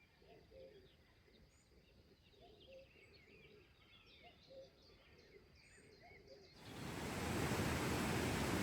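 Faint wild birdsong: scattered high chirps and twitters with a few short, lower calls. About six and a half seconds in, a loud steady rushing noise sets in suddenly and drowns the birds out.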